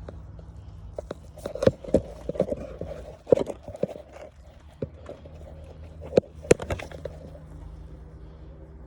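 A VW engine idling low and steady, with irregular sharp clicks and knocks on top, the loudest about two seconds in, three seconds in and around six and a half seconds.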